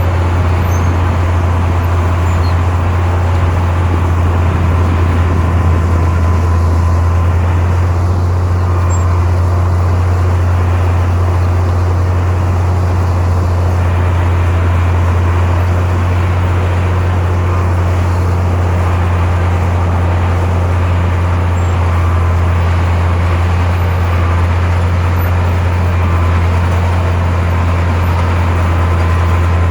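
Heavy diesel earthmoving machinery running steadily under load, a loud deep engine drone with no pauses or changes in pitch.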